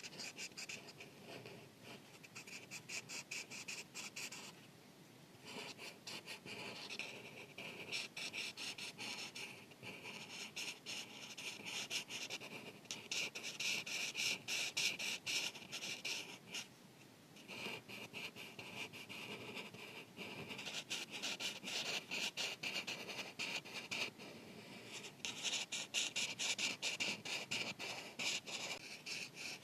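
Marker tip scratching across paper in quick back-and-forth coloring strokes, in bouts of several seconds with short pauses between.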